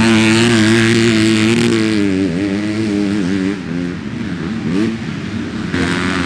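Motocross dirt bike engine running hard at high revs, holding a steady pitch for about two seconds, then dropping and rising several times as the throttle is chopped and reopened.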